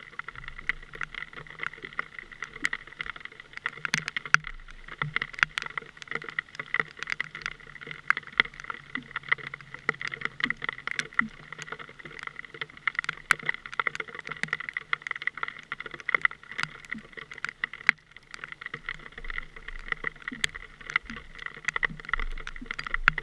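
A boat running on the river: a steady motor hum with many irregular sharp slaps and clicks of water against the hull.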